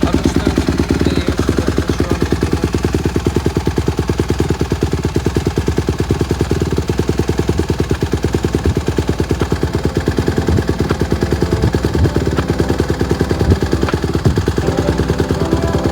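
Honda CRF150RB dirt bike's single-cylinder four-stroke engine idling steadily while warming up after a cold start, a fast even pulsing with no revving.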